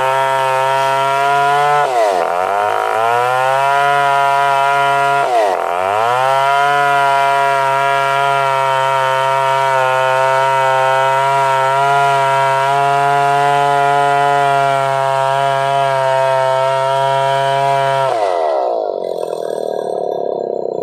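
Stihl 070 two-stroke chainsaw running at high revs with a steady note. The pitch dips sharply and recovers twice in the first six seconds, then falls away near the end as the engine comes off full throttle.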